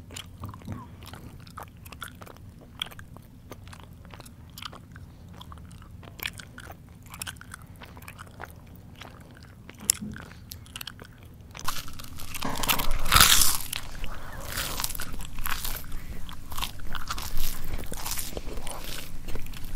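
Close-miked mouth chewing. Soft, scattered wet clicks and smacks for the first half, then loud, dense crunching of crisp food starting about twelve seconds in, loudest a second or so later.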